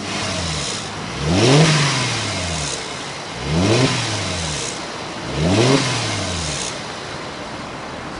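Car engine revved three times, about two seconds apart, each rev rising and falling in pitch, with a hissing whistle from an aftermarket turbo-sound whistler that swells with each rev.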